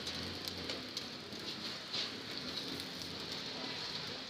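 Roti with egg sizzling in oil on a flat griddle: a steady crackling hiss with scattered small pops.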